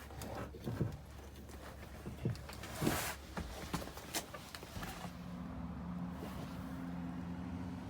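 Scattered light clicks and knocks, then a steady low mechanical hum with two tones starting about five seconds in.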